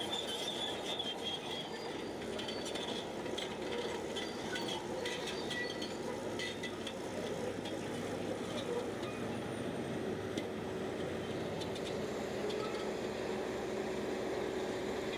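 Crawler bulldozer working, its engine running steadily under scattered metallic clinks and short high squeaks from the steel tracks, which come mostly in the first half.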